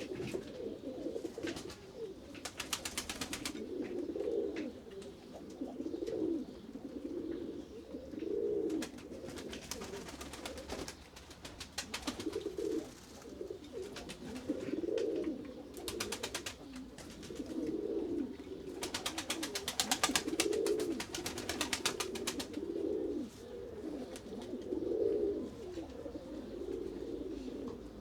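Several pigeons cooing over and over, the low coos overlapping almost without pause. Every few seconds there is a short burst of rapid clicking or rattling.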